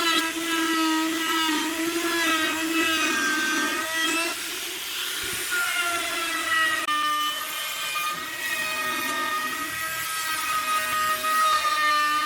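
A high-speed power tool's motor whining under load, its pitch wavering and shifting a few times as the load on it changes.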